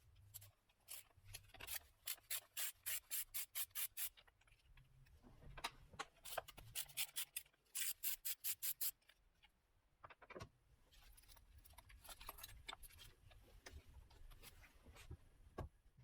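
Hand-tool work on the engine: runs of quick rasping strokes, about five a second, in two bursts, with scattered single strokes between and after.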